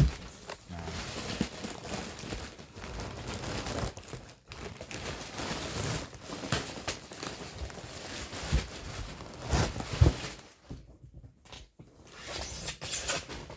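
Packaging being handled while unboxing a 3D printer's parts: steady crinkling and tearing, with a few knocks along the way and a brief lull near the end.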